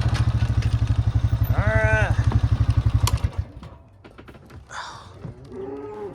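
A farm vehicle's engine running at idle with an even low pulsing, switched off about three seconds in; a few light clanks and rattles follow.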